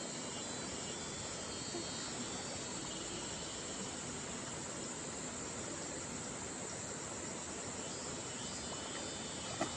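Steady rush of stream water with a high insect buzz over it, and a short knock near the end.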